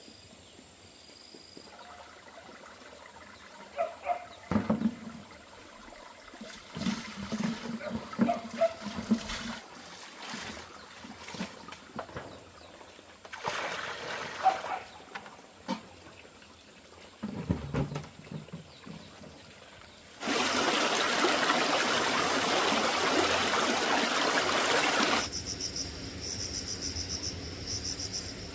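Water pouring or running for about five seconds, after scattered knocks and handling clatter. Near the end, crickets chirp in a fast, steady pulse.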